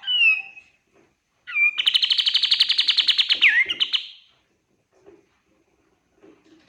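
Kapas tembak songbird singing: a short falling whistle, then about a second and a half in a loud, rapid, even trill of many quick notes lasting over two seconds, closing with a downward-swooping note.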